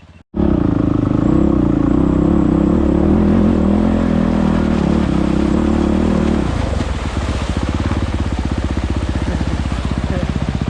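Enduro motorcycle engine running loud and close, cutting in abruptly; about six seconds in it eases off to a lower, evenly pulsing beat.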